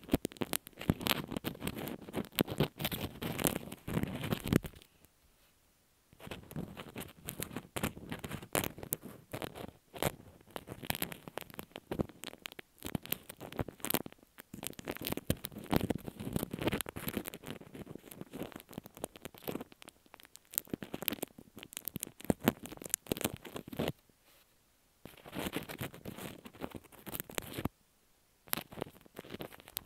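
Slime being squished and worked over an earphone microphone: dense crackling and popping in bursts, broken by short pauses about five seconds in and near the end.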